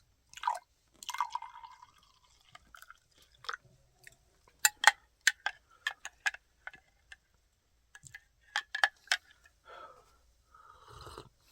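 Boiled water poured into a cup to make instant coffee, with a scatter of short, sharp clinks and taps of cup and utensils in two clusters, around the middle and a little later.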